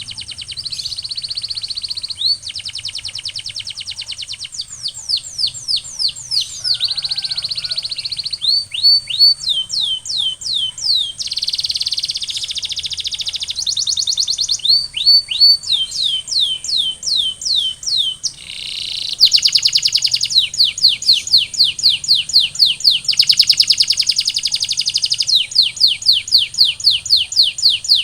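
Male canary singing a continuous song of tours: stretches of fast rolling trill alternate with runs of repeated downward-sweeping whistled notes, several a second, growing louder about two-thirds of the way through. A steady high-pitched hiss sits under the song.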